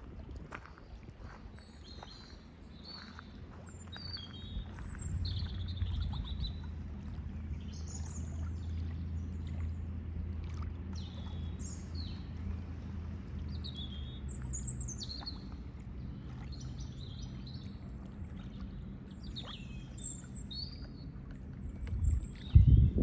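Small birds chirping and calling in short, repeated phrases over a low steady motor hum that sets in about five seconds in and eases off later. A couple of loud low thumps come near the end.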